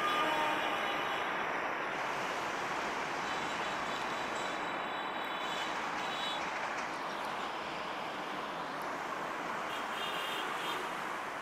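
A passing train's coaches rolling away on metre-gauge track: a steady rumble of wheels on rails that slowly fades as the rear of the train recedes.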